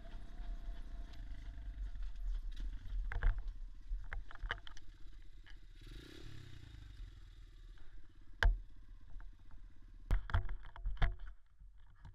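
Small single-cylinder off-road motorcycle engine running at low revs, with a brief rev change about six seconds in. Several sharp knocks and rattles come through over the engine, the loudest at about eight and a half seconds.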